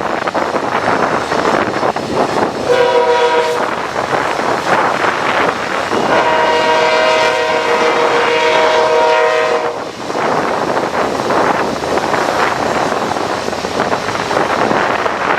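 Freight locomotive air horn sounding a multi-note chord, a short blast about three seconds in and then a long blast of nearly four seconds. Heavy wind buffets the microphone throughout.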